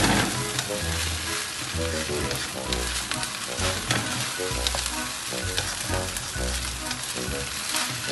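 Corned beef fried rice with egg sizzling in a nonstick frying pan, stirred and tossed with two wooden spatulas that scrape and knock against the pan, over background music.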